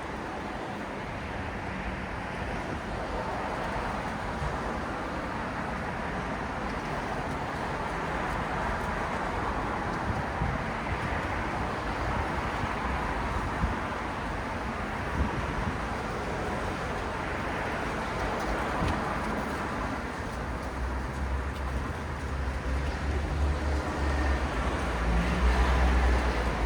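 City road traffic: a steady wash of car and tyre noise. A deeper engine rumble grows louder over the last several seconds as a vehicle draws near.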